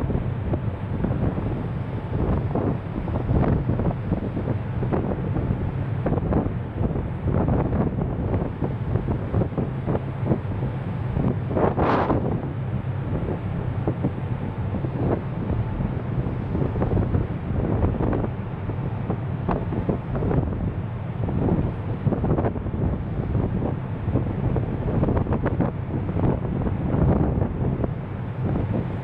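Wind buffeting the camera microphone on a ferry at sea, over a steady low hum from the ship and the rush of water. About twelve seconds in there is one brief, sharp higher sound.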